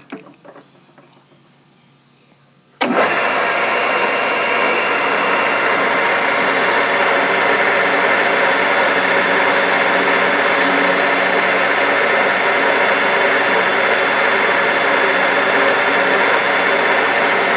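A few light clicks, then about three seconds in a Grizzly G4003G gearhead metal lathe starts abruptly and runs at a steady speed, its motor and headstock gears giving a constant hum and whine.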